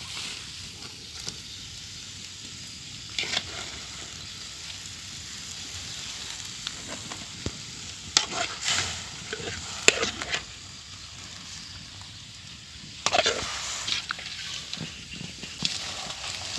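Crab frying in a steel wok over a wood fire, sizzling steadily, with a few louder clatters of a metal ladle against the pan.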